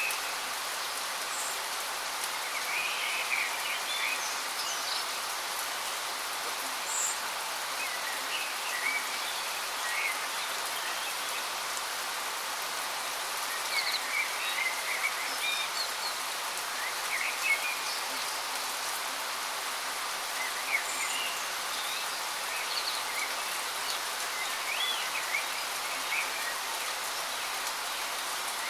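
Steady rushing hiss of a waterfall, with birds chirping in short scattered calls over it.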